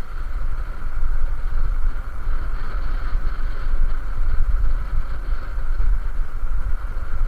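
Wind buffeting the microphone of a moving personal electric vehicle, a gusty low rumble over a steady whine from its electric drive.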